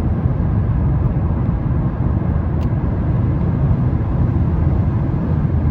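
Steady low road rumble of a Mazda 3 driving on a rain-wet expressway, heard from inside the car: tyres on wet pavement and engine noise. There is a single faint click about two and a half seconds in.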